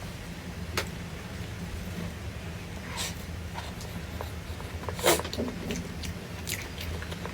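A few short sharp clicks and taps, the loudest about five seconds in, over a steady low hum.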